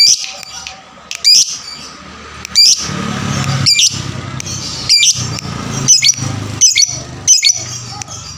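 Fighter lovebird calling: sharp, high, loud chirps about once a second, with a denser run of continuous chattering in the middle.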